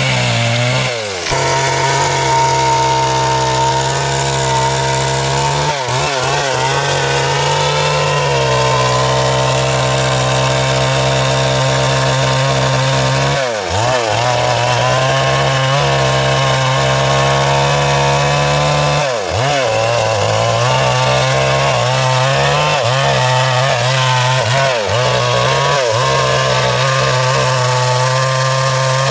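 Stihl MS 382 two-stroke chainsaw running at high revs while cutting wood to board size, its engine note steady and loud. The pitch briefly sags and recovers a few times as the chain loads up in the cut.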